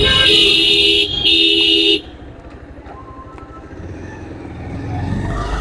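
Vehicle horn honking twice, a blast of about a second and then a shorter one, over the rumble of riding in traffic. Afterwards only road and engine rumble remains, slowly growing louder.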